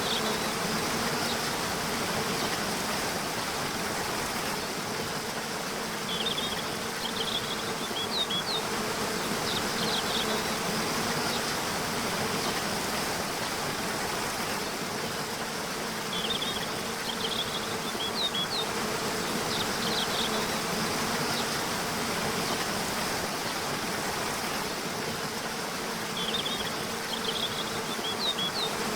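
Waterfall rushing steadily, under a faint steady low hum. Birds sing short bursts of high chirps three times, about ten seconds apart.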